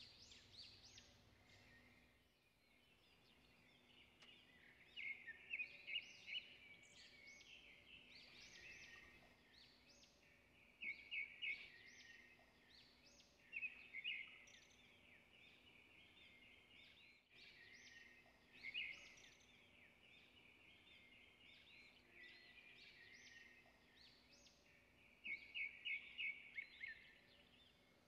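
Faint bird calls: short bursts of rapid chirps every few seconds, over a low steady hum.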